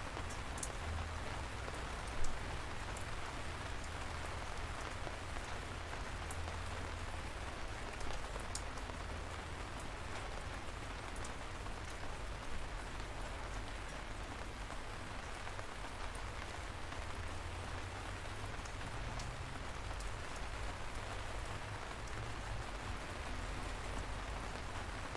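Light rain falling steadily, with scattered individual drops ticking sharply and a low rumble underneath. A few louder drop hits stand out, about two seconds in and again around eight and twelve seconds.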